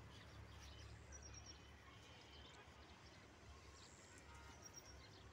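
Near silence, with a faint low rumble underneath. A small bird gives two short runs of three or four quick, high chirps, about a second in and again near the end.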